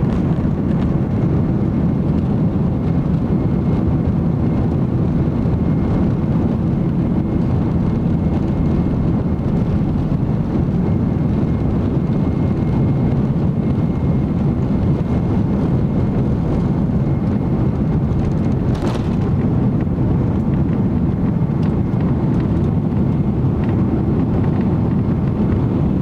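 Steady cabin noise inside a Boeing 767-300ER in flight: a loud, even rush of engine and airflow noise, with a faint steady whine above it. There is a brief click about two-thirds of the way through.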